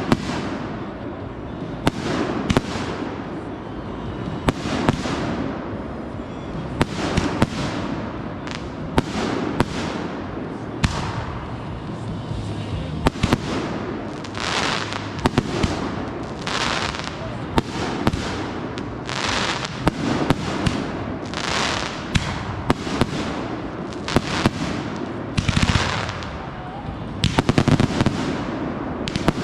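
Fireworks display going off: a steady run of sharp bangs, several close together at times, with stretches of crackle and hiss between the bursts.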